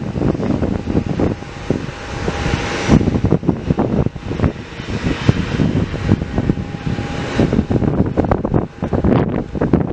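Airliner engines running, heard through heavy wind buffeting on the microphone, with a faint steady whine that comes and goes.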